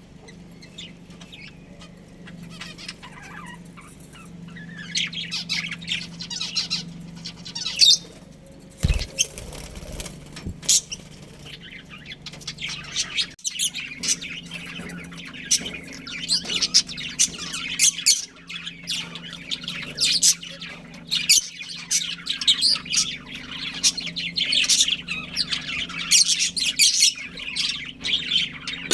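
Pet budgerigars chirping and chattering in many short, high calls, sparse at first and busier from about halfway. A steady low hum runs underneath, and there is a single low thump about nine seconds in.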